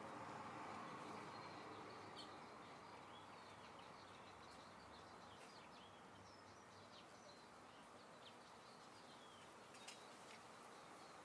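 Faint outdoor ambience: a soft, steady wind hiss with scattered short, high bird chirps throughout, and a single sharp click near the end.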